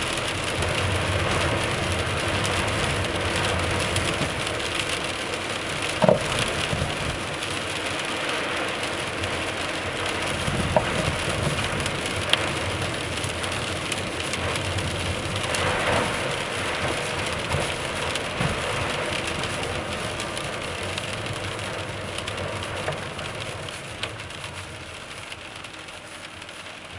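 Steady road and tyre noise inside a 10-series Toyota Alphard Hybrid, broken by a few short, sharp knocks from its RS-R Best-i coilover suspension. The knocking was traced to a loose upper top nut on the coilover.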